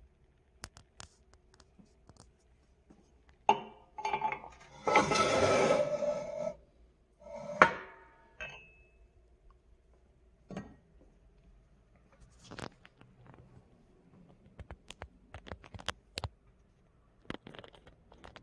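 Scattered clinks and knocks of hard objects, with a louder rustling, scraping noise for about a second and a half around five seconds in.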